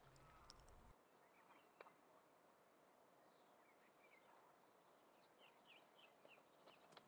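Near silence with a few faint, short bird chirps about five to six seconds in.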